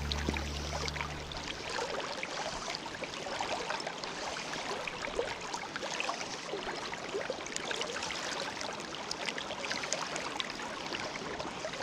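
Light rain falling on a river, a dense patter of small drop ticks over the steady rush of the flowing water. Background music fades out in the first second or so.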